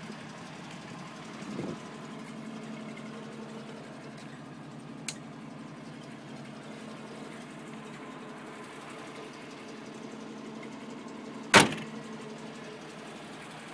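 The 1962 Toyota FJ40 Land Cruiser's rebuilt inline-six engine idling steadily. A sharp, loud bang cuts across it about two seconds before the end.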